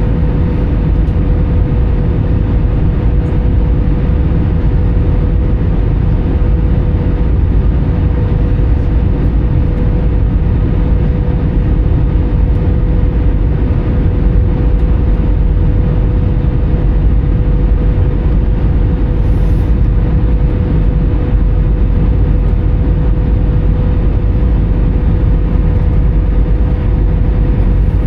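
Steady cabin noise inside an Airbus A320 in flight: a loud, low rumble of airflow and its CFM56 turbofan engines, with a thin steady hum running through it.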